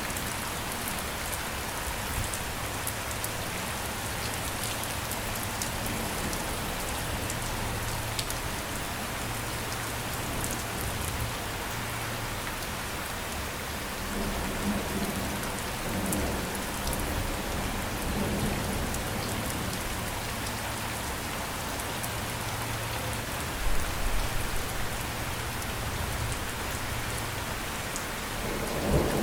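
Steady rain falling and pattering on a surface, a dense even hiss with fine drop sounds. In the second half there are some low rumbles and a couple of brief louder thumps.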